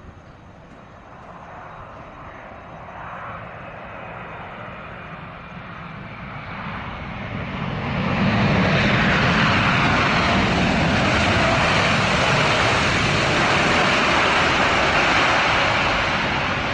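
Jet airliner's engines, a wide rushing noise that grows louder over about eight seconds as the plane approaches, then stays loud and steady.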